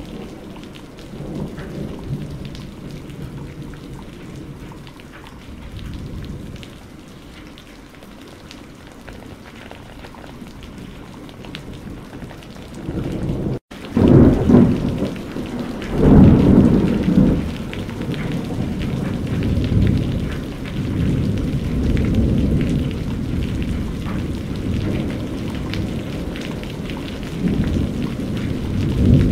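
Steady rain with rolling thunder. The rumbling is lower in the first half. The sound cuts out for an instant about halfway through, then louder thunder rolls in twice in quick succession and keeps rumbling.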